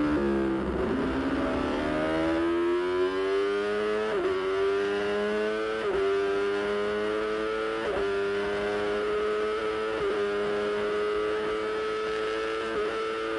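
MV Agusta racing motorcycle engine at high revs. Its note dips, then climbs in pitch over the first few seconds and holds high, with a short break in the note about every two seconds.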